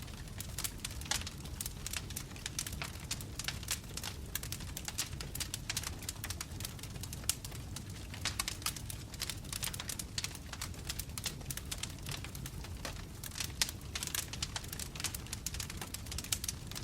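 Wood fire burning in a fireplace: dense, irregular crackles and pops from the burning logs over a steady low rumble of the flames.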